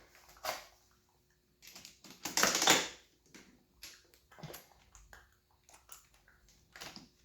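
Metal sockets and hand tools clinking and rattling as they are picked up and sorted, with short sharp clicks and a louder, longer clatter about two to three seconds in.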